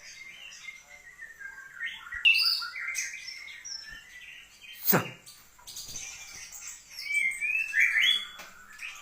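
White-rumped shama (murai batu) singing a varied run of gliding whistles and rapid chattering phrases. A sharp knock comes about five seconds in.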